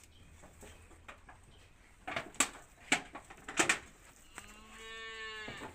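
A cow mooing once, a steady call about a second long near the end, after a few sharp knocks or clacks.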